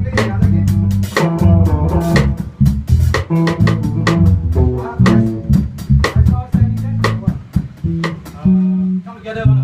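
A small band playing an instrumental jam: a prominent bass line with guitar over a drum kit. The drum hits stop about a second before the end, leaving bass and guitar.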